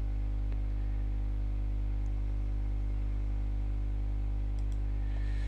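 Steady low electrical hum with a buzz of evenly spaced overtones, unchanging throughout: mains-type hum picked up by the recording.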